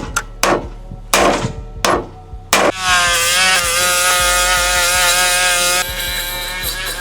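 Hand tools knocking on metal, about five sharp strikes in the first three seconds, followed by a long wavering musical tone.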